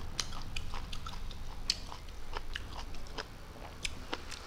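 Close-up chewing and mouth smacking of a person eating rice and small fried fish: irregular small wet clicks and crunches, several a second.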